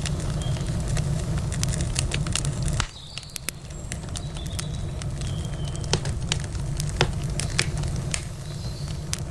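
Wood campfire crackling, with sharp irregular pops scattered throughout over a low steady rumble. The rumble drops away abruptly about three seconds in, leaving the crackles.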